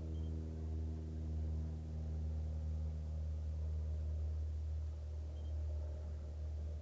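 A steady low hum, with a fainter higher ringing over it that fades away over the first few seconds. Two very short, faint high beeps come near the start and again late on.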